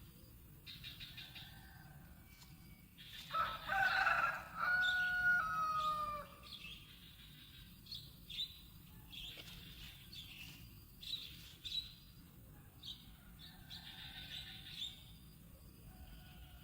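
Birds calling: a loud, drawn-out call made of several held notes, each sliding slightly down, about three seconds in, then short high chirps scattered through the rest.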